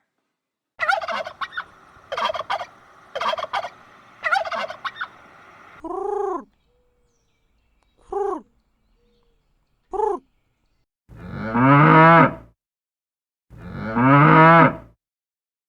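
Turkey gobbling in quick rattling bursts for about five seconds, then three short separate calls, then a cow mooing twice in long, full calls near the end.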